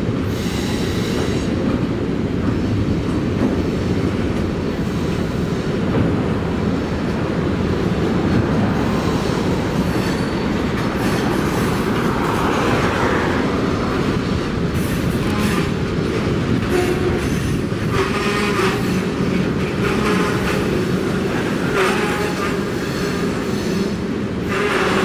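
Freight train cars rolling past: a steady rumble of steel wheels on the rails, with clicks as the wheels cross rail joints, coming more often in the second half.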